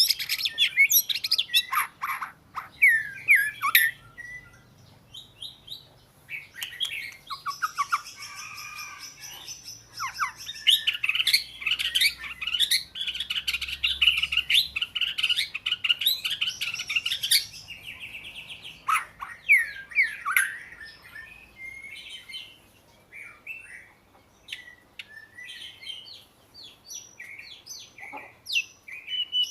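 Oriental magpie-robin singing: a varied song of clear whistles and chirps in separate phrases. Near the middle comes a long, fast run of notes, and later the phrases are sparser and quieter.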